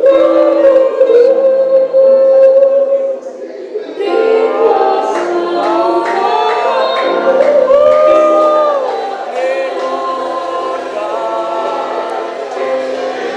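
Many voices singing together in worship, with long held notes that slide up and down between pitches.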